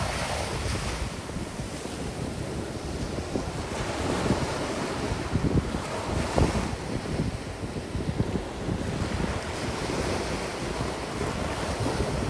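Ocean waves washing onto a sandy beach, mixed with strong wind gusting on the microphone.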